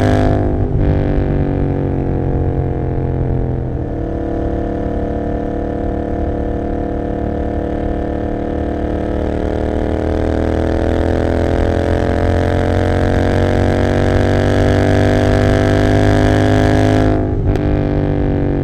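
Royal Enfield Continental GT 650's parallel-twin engine through an Emgo cafe muffler with no dB killer, heard on board while riding. The engine note drops suddenly about half a second in at a gear change, then climbs slowly under throttle, and drops again at another shift near the end.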